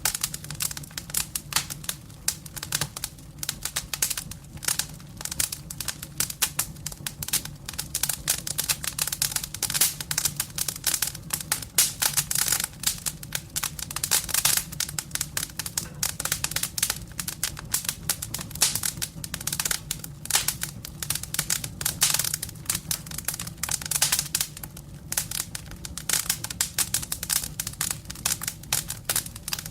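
Wood burning in a fireplace: logs crackling continuously with dense, irregular snaps, over a low steady hum.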